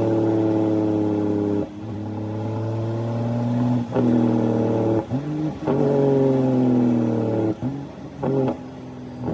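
Straight-piped Caterpillar C13 diesel of a Kenworth W900B dump truck, heard loud and close. The engine's pitch falls steadily, breaks off briefly several times, and comes back higher each time, as when a truck slows and downshifts gear by gear.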